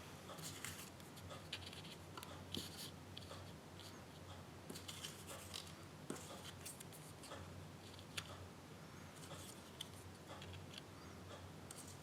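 Scissors snipping paper in irregular short cuts, with faint rustling of the sheet.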